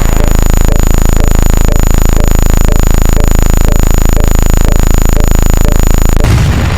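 A loud, steady, very fast buzz with a thin high whine on top and a faint blip about twice a second: a synthetic sound effect.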